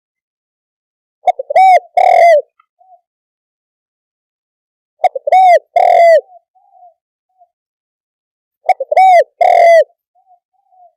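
Spotted dove cooing loudly: three calls about three and a half seconds apart, each a few short notes and then longer coos that rise and fall in pitch.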